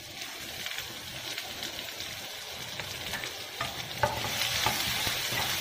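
Chopped onion sizzling in hot ghee in a nonstick frying pan, with a wooden spatula scraping and knocking against the pan as it is stirred. The sizzle grows louder about four seconds in.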